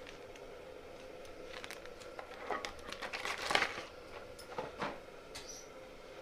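Thick onion-tomato masala frying in a pressure cooker, crackling and spluttering with scattered pops that come thickest in the middle, over a faint steady hum.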